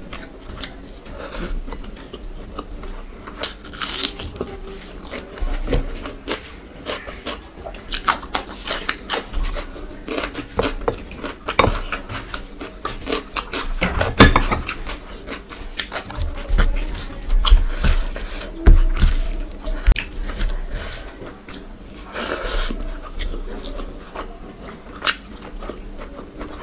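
Close-miked eating sounds: a person chewing and biting rice and curry eaten by hand, with many short, sharp clicks and squelches.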